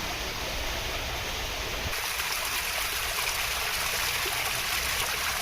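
Steady rushing of running water, like a stream. About two seconds in the low rumble drops away and the hiss turns brighter.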